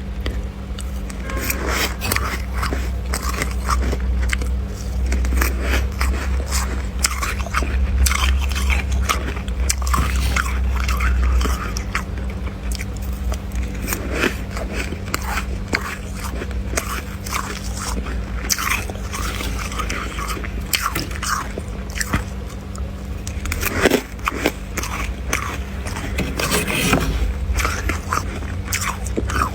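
Freezer frost being bitten and chewed: a dense run of irregular crunches close to the microphone, over a steady low hum.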